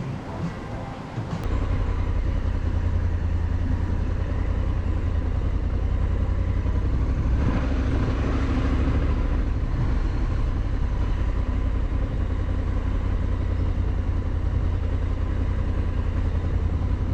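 Honda Africa Twin motorcycle under way, a steady low rumble that sets in about a second and a half in.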